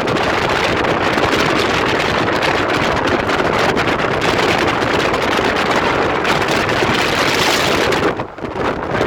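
Wind rushing over the microphone from a moving car, mixed with road noise. The rush drops away briefly near the end and then returns.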